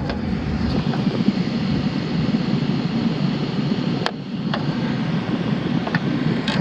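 HVAC indoor air handler's blower running, a steady rush of air drawn into the open return intake with its filter pulled, with a couple of brief clicks of handling.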